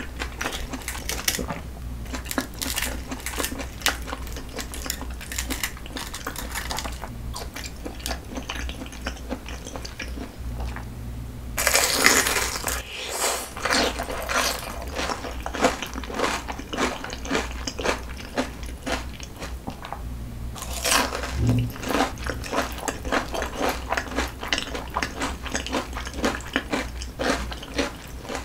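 Close-miked chewing and crunching of fried oysters, wet and crackly, with louder crunchy bursts about twelve and twenty-one seconds in.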